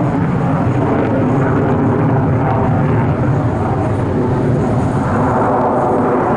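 An airplane's engines running loud and steady as it flies during an airshow display.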